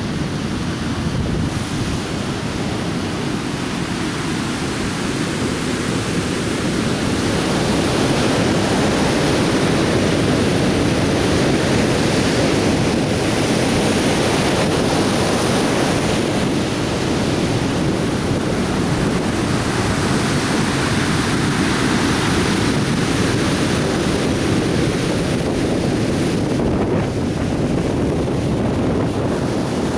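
Atlantic Ocean surf breaking on a beach: a continuous wash of waves that swells slightly louder through the middle.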